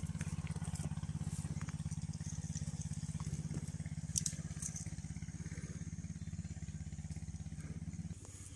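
An engine running steadily with a fast, even pulse, dropping off sharply a little before the end.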